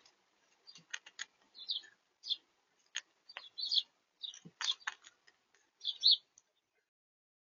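Small birds at a seed feeder chirping in short high notes, mixed with sharp clicks and taps; the sounds stop about six and a half seconds in.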